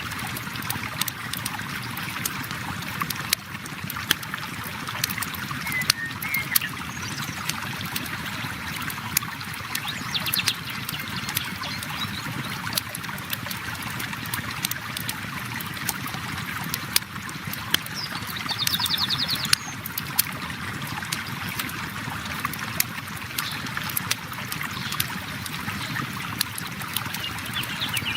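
River water flowing steadily, with a campfire crackling and popping throughout. A few brief high bird chirps come through, including a short trill about two-thirds of the way in.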